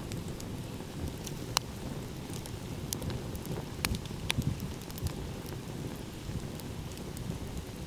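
Wood fire crackling, with scattered sharp pops, the loudest about a second and a half in and around three to four seconds in, over a steady low rumble.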